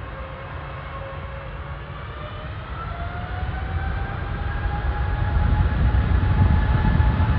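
Jet airliner engines growing steadily louder over a deep rumble, with a whine that rises in pitch about halfway through.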